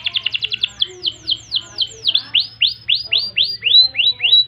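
Domestic canary singing: a fast trill of rapidly repeated notes, then a run of falling whistled sweeps about four a second, changing about halfway to a slower series of arched notes.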